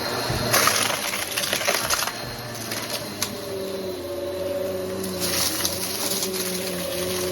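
Vacuum cleaner running with a steady motor hum, with surges of hiss and crackly rattling of spilled debris being sucked up, about a second in and again near the end.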